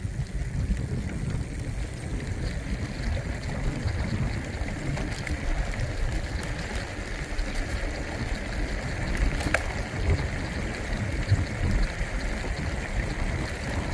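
Wind rushing over the microphone and rolling noise of a moving bicycle, a steady low rumble with a single sharp click about nine and a half seconds in.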